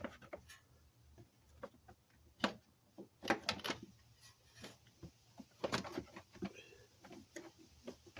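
Irregular clicks and knocks of a plastic under-panel being handled and pushed into place, with small parts clattering, in clusters about two and a half, three and a half, and six seconds in.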